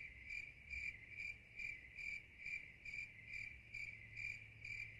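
Faint cricket chirping: an even, unbroken run of short high chirps, about two and a half a second, the stock 'crickets' sound effect laid over a quiet moment.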